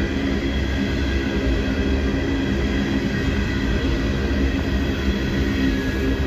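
Freight train rolling slowly past, a steady rumble of cars on the rails.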